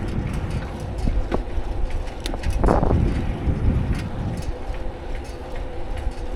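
Riding noise from a bicycle-mounted camera: a steady low rumble of wind and tyres on the road, with frequent small rattling clicks and a brief louder rush a little under halfway through.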